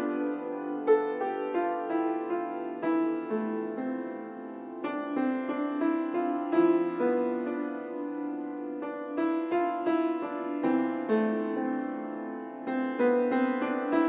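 Piano music: notes and chords struck one after another at an unhurried pace, each ringing on.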